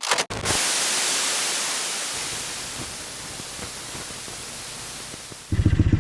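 Static-like hiss that starts abruptly after a few clicks and slowly fades. Near the end, a small single-cylinder dirt bike engine, the 125cc, cuts in running with rapid, even pulses.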